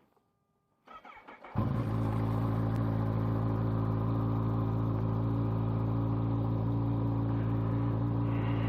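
Kawasaki Z H2's supercharged inline-four engine starting. It cranks briefly about a second in, catches with a jump in level, and settles into a steady idle.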